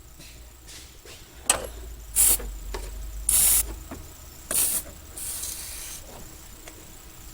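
A sharp click, then a run of short squeaky rubbing bursts as a small rubber grommet is forced into place on a plastic intake part by hand.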